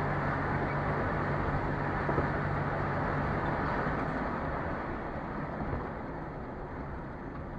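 Car driving, picked up by a dash camera: a steady low engine hum under road noise, easing slightly toward the end.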